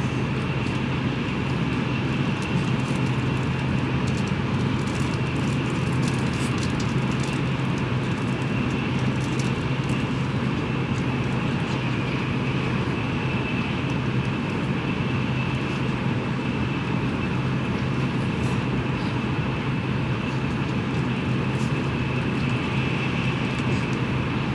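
Cabin noise of a Tokaido Shinkansen train running: a steady low hum under an even rushing noise, with a faint steady high whine.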